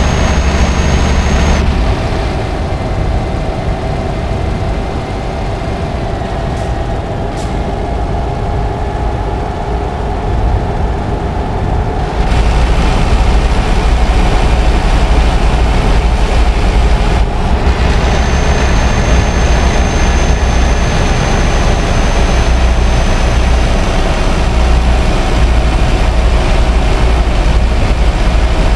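Scania R560's V8 diesel engine running under a heavy load of about 80 tonnes. It eases off about two seconds in, slowly rising in pitch. It comes back on loud about twelve seconds in, with a short dip near seventeen seconds.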